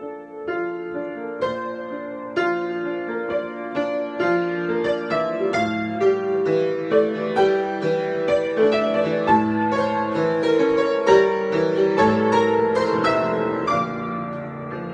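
Solo piano improvisation: a flow of struck notes and chords that grows busier and louder through the middle, then eases off near the end.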